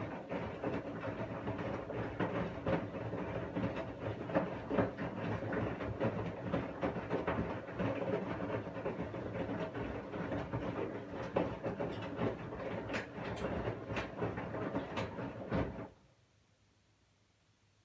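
Washing machine running, its drum turning with a steady rumble and many small clacks and knocks. The sound cuts off suddenly near the end, leaving near silence.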